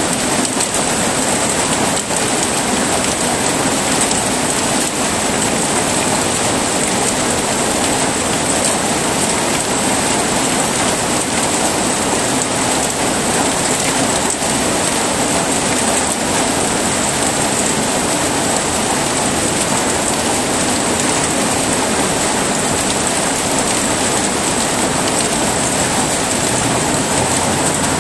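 Heavy rain falling steadily, a constant dense hiss with no thunder.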